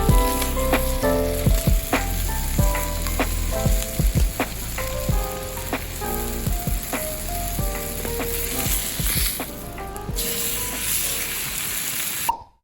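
Ajillo sizzling in hot olive oil in a frying pan over a campfire, a steady hiss with frequent sharp pops and spatters. It cuts off suddenly near the end.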